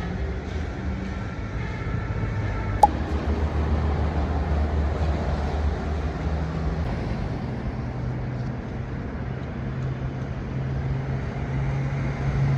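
Steady vehicle rumble with a low hum, which grows a little stronger in the second half, and a single sharp click about three seconds in.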